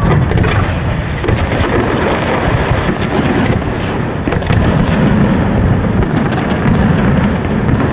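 Fireworks display going off in a dense, continuous barrage of booms with crackling over the top.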